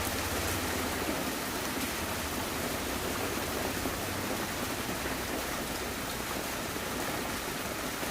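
Steady rushing of water, an even hiss with no distinct splashes.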